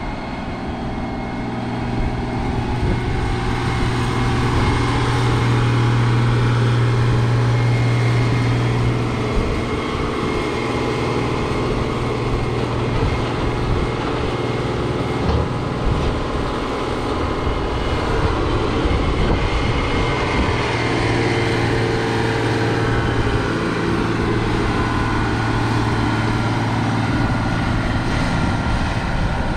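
Heavy farm machinery engine running steadily under load, its low hum growing louder about four seconds in, easing off near ten seconds, and swelling again past twenty seconds.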